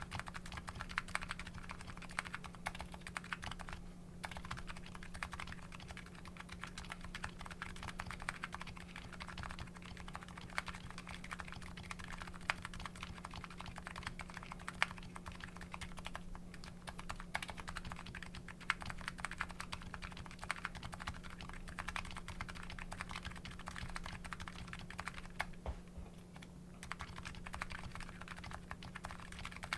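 Continuous typing on a Nuxros Kraze custom keyboard fitted with MetaKeebs MetaPulse electro-capacitive switches: a fast, steady run of key clicks, with brief lulls about four seconds in and near the end. A faint steady low hum sits underneath.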